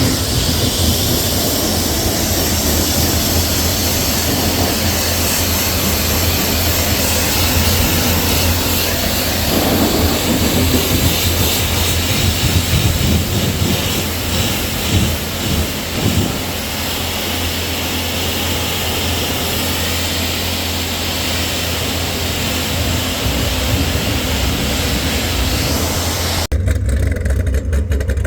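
A car's engine droning low under a loud, steady rushing noise; the rushing stops abruptly a couple of seconds before the end, leaving the engine drone.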